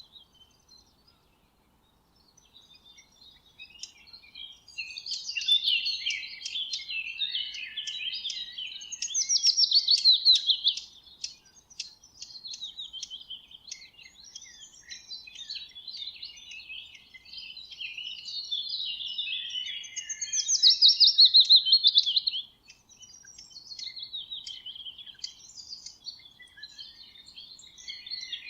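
Small birds chirping and twittering almost continuously in high-pitched chatter, with two loud, fast trills, one about nine seconds in and one about twenty seconds in.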